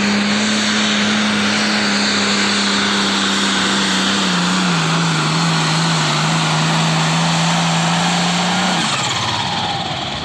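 Turbocharged diesel Pro Stock pulling tractor running flat out under load with a steady high engine note that dips slightly about four seconds in. Near the end the engine is backed off and the sound falls away with a descending whine.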